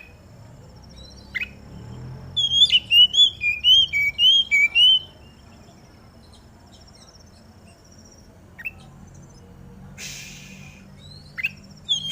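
Oriental magpie-robin singing: a quick run of clear whistled notes from about two to five seconds in, with single sharp falling call notes before and after it and a short harsh rasp near the end.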